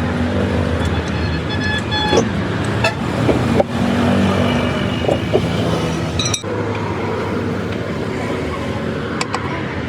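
Busy road traffic: vehicle engines running and tyres passing, with a horn sounding briefly about a second in and a few sharp knocks.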